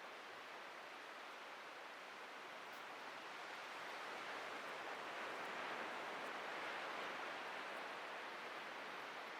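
Atlantic ocean surf washing on a beach, a steady hiss that swells slowly in the middle and eases off a little toward the end.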